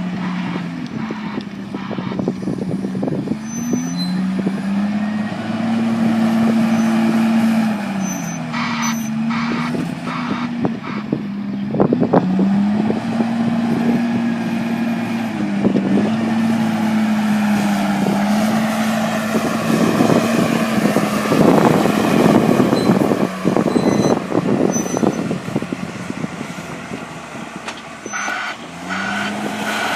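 Heavy farm tractor engine working under load at silage, its revs repeatedly dipping and recovering every few seconds. A rough, rattling noise rises over it a little after halfway.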